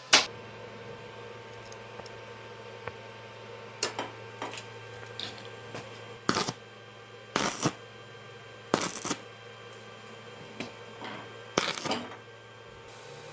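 Metal parts handled on a workbench, giving a string of sharp clinks and knocks, the loudest right at the start and about eight more scattered through the rest, over a steady low hum.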